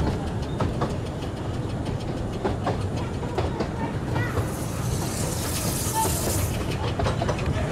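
A 381 mm (15-inch) gauge railway train running with a steady low rumble and scattered rail clicks. About four seconds in, a burst of steam hiss lasts for roughly two seconds.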